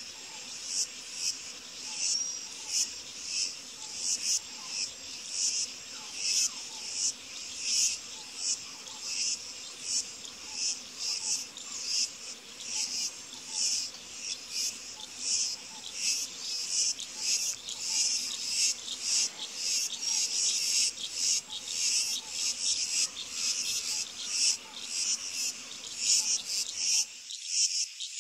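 Insects chirping in a steady, pulsing chorus, high-pitched and about two pulses a second. The low background noise drops away near the end.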